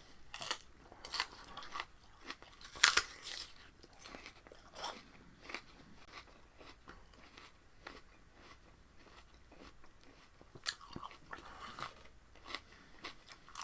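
Raw spinach stalks being bitten and chewed close to the microphone: irregular wet crunches, the loudest about three seconds in.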